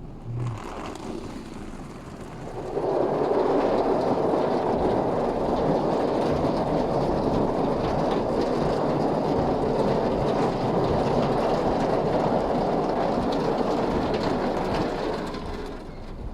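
Steady rushing road and rain noise heard inside a moving car on a wet day. It swells a few seconds in, holds evenly, and fades near the end.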